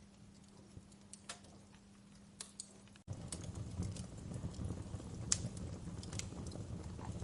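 Fire crackling with sparse sharp pops over a faint steady hum. About three seconds in, the sound cuts out for an instant and comes back louder, with denser pops over a low rumble.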